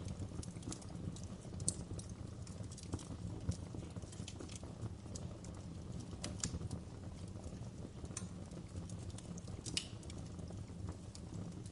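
Wood fire crackling in a fireplace: a steady low rumble of flames with irregular sharp pops and snaps of burning logs.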